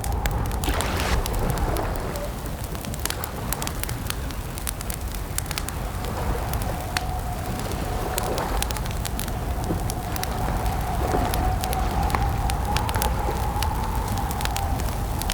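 Campfire crackling and popping with many sharp snaps, over a steady low rumble. A wavering tone runs underneath.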